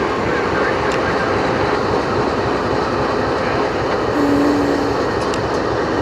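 Freight train of single-stack intermodal well cars rolling past, with a steady rumble and clatter of wheels on the rails and a brief low squeal about four seconds in.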